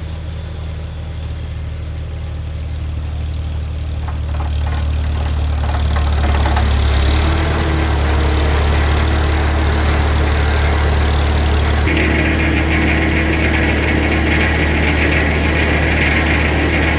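Tractor engine idling steadily while it warms up, getting louder a few seconds in. About twelve seconds in, the sound changes suddenly as a steady higher whine joins the engine.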